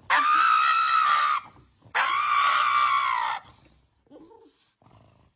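Two long, high-pitched screams, each held for just over a second at a steady pitch that drops slightly at the end, the second about two seconds in.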